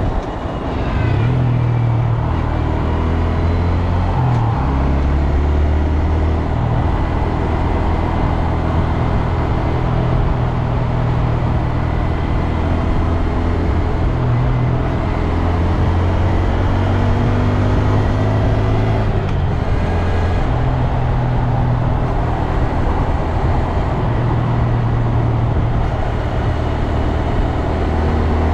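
2022 Honda Grom's 124cc air-cooled single-cylinder engine running while the bike is ridden, its note rising and falling several times with the throttle.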